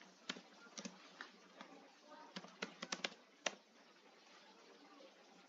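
Faint computer keyboard typing: scattered keystrokes, quickening about two and a half seconds in, then stopping about three and a half seconds in.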